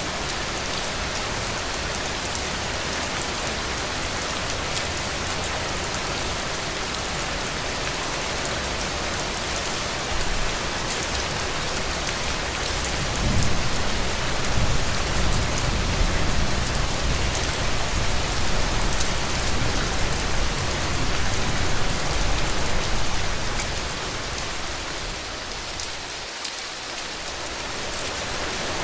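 Heavy rain falling steadily, an even dense hiss of drops. A low rumble swells up about halfway through and fades a few seconds before the end, and the rain dips briefly near the end.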